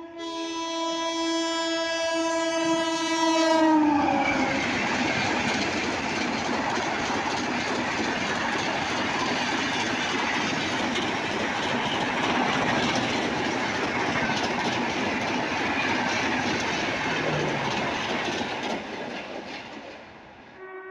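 An express train's locomotive horn sounds one long blast as the train approaches, and its pitch drops sharply as the locomotive passes. The coaches then rush past at speed, a loud steady noise of wheels on rails lasting about fifteen seconds that fades near the end.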